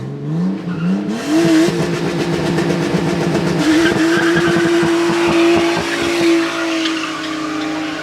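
A car engine revs up over the first second or two and is held at high revs while the tyres spin and squeal, as in a burnout or drift.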